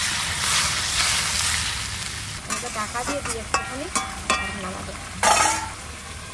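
Fish, potato and ash gourd sizzling in hot oil in a karai, loudest in the first two seconds, then quieter as a metal spatula stirs and scrapes against the pan with sharp clicks and short metallic rings. A brief louder burst of noise comes a little after five seconds.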